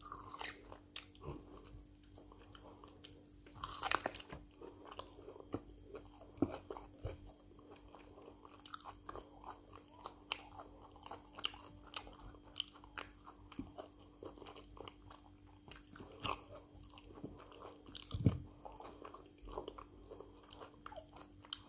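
A person biting and chewing a stew-coated piece of meat with white rice, eaten by hand: irregular close mouth clicks and smacks throughout. A faint steady hum lies underneath.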